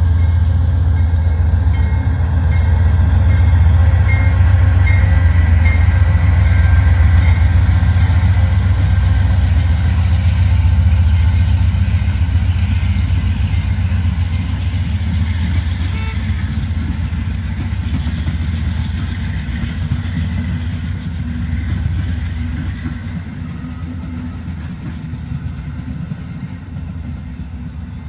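Amtrak passenger train passing: a low rumble of the train and its wheels on the rails, loudest in the first third, then fading away as the last cars go by.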